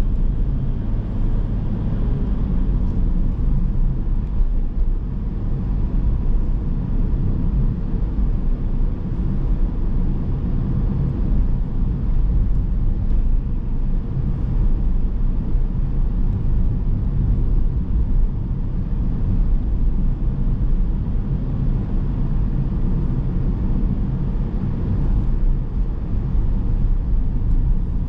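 Car driving along a road: a steady low rumble of tyres, engine and road noise.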